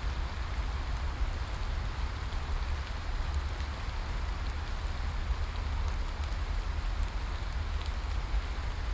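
Steady rain falling, with a constant deep low rumble under it and faint scattered drop ticks.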